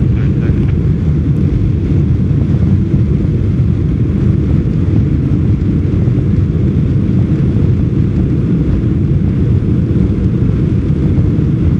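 Boeing 747-400 jet engines at takeoff power: a steady, loud, low rumble that holds an even level throughout.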